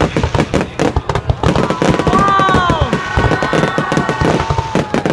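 Fireworks going off in a rapid, dense string of bangs and crackles. Partway through, a few pitched tones slide downward and then hold steady over the bangs.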